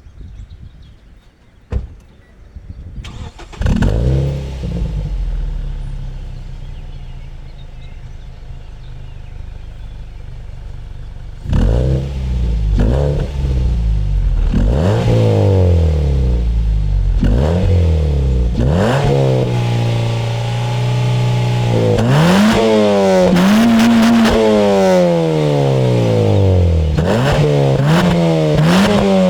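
2007 Mazda 6's 2.3-litre Duratec four-cylinder petrol engine starting about three seconds in and idling, then revved up and down again and again, held briefly at a steady speed midway through the revving. It is heard through a single exhaust with the intermediate silencer deleted and a Sebring rear silencer.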